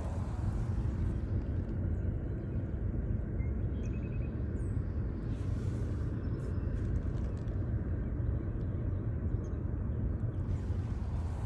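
Steady low outdoor rumble with a few faint, short bird calls, about a third of the way in and again near the end.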